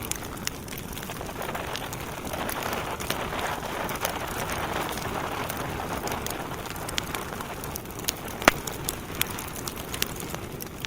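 Wood fire burning in a fireplace: a steady rushing hiss of flames with scattered sharp crackles and pops from the burning logs, the loudest pop about eight seconds in.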